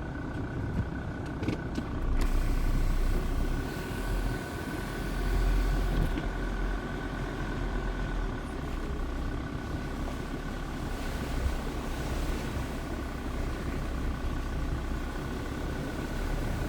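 Jeep Grand Cherokee WJ's 2.7 CRD five-cylinder diesel running, a steady low rumble that swells twice, with a faint steady high whine over it.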